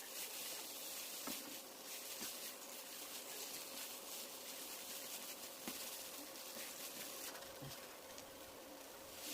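Spiced onion-tomato masala sizzling softly in a pan, with a few light clicks and a dull knock of a spoon as boiled chickpeas are added and stirred in.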